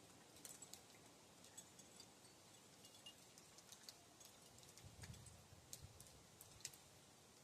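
Faint, scattered high tinkles of small wind chimes stirred by the wind, with a low rumble of a wind gust about five seconds in.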